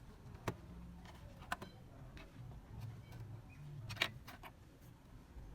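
Small hand tools and phone parts clicking and tapping on a repair bench: three sharp clicks, about half a second in, a second later, and the loudest near four seconds, with fainter ticks between.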